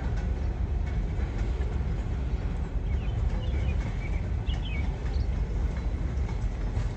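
Freight train rolling past, a steady low rumble of the cars on the rails. A few faint bird chirps come in around the middle.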